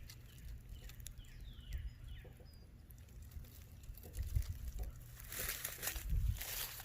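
Outdoor ambience with a few faint bird chirps in the first half, then rustling and low thuds from someone walking through the yard in the second half.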